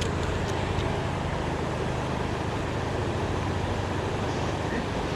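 Fast-flowing creek water rushing steadily, with a few faint clicks near the start.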